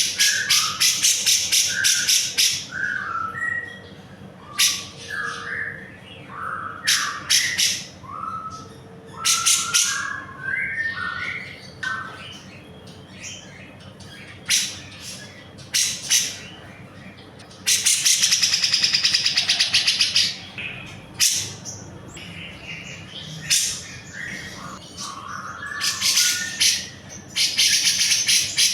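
Grey-cheeked bulbul (cucak jenggot) singing vigorously: short whistled phrases alternating with loud, rapid chattering trills, with one long unbroken trill about two-thirds of the way through.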